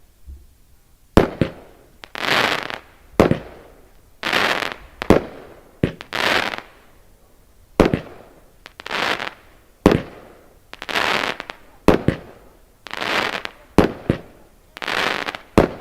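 Angry Oryx 25-shot firework barrage cake firing shot after shot, roughly one a second. Each shot is a sharp crack followed by about half a second of rushing, hissing noise.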